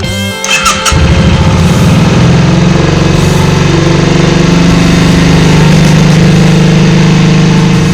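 Motorcycle engine catching about a second in after a few short clicks, then running steadily.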